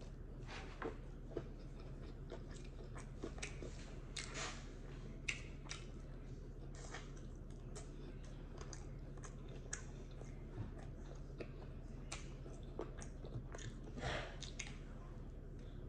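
A person eating chicken wings and thin cauliflower-crust pizza: irregular bites and chewing, with crunches and small wet clicks from the mouth. The bites are a little longer and louder about four seconds in and near the end.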